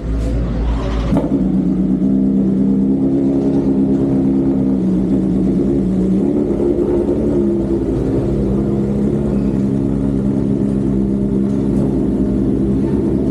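BMW S1000RR race motorcycle's engine running at a fairly steady pitch, after a brief burst of noise about a second in.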